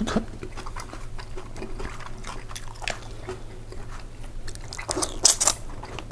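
A person chewing pasta with small wet mouth clicks, and one louder brief noisy sound about five seconds in.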